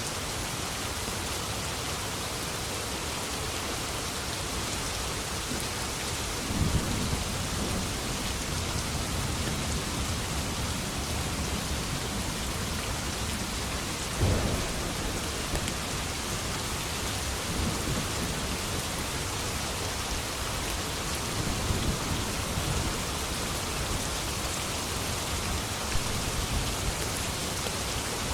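Steady rain falling, with low rolls of thunder rumbling several times.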